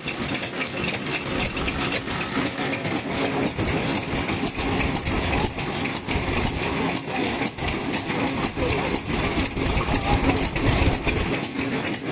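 Vintage Japanese stationary kerosene engines (sekiyu hatsudōki) running, a steady chugging made of many sharp, irregularly spaced exhaust pops that overlap one another.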